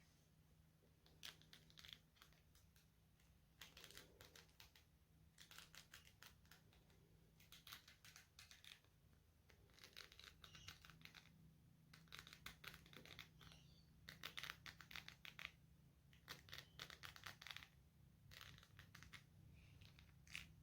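Hairbrush drawn through hair in slow repeated strokes, about ten in all, each a second-long faint crackle of bristles through the strands, coming roughly every two seconds.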